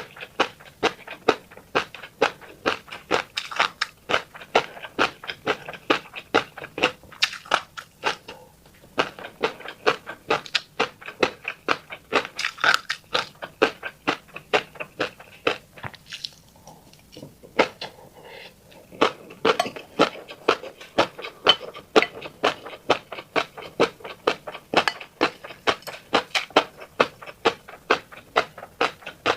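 Close-up wet chewing of fish roe: a rapid run of sharp little pops and clicks, several a second, as the eggs burst in the mouth, with a lull of a few seconds midway.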